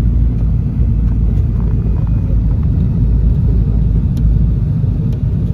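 Douglas DC-3's twin radial piston engines running, a loud steady low rumble heard from inside the cabin.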